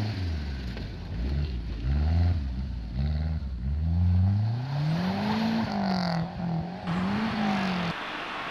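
Rally car engine revving hard through a series of quick gear changes, its pitch climbing and dropping again and again, then a longer rise and fall as it passes, dropping away near the end.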